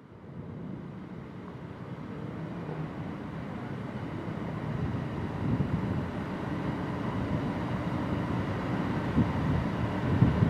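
A vessel's engine giving a steady low rumble with a faint hum above it, growing gradually louder.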